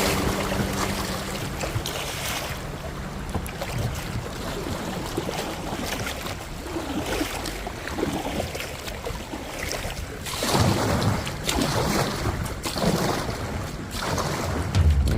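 Water rushing and splashing around a kayak on a small river riffle, with wind on the microphone; the splashing grows louder about ten seconds in.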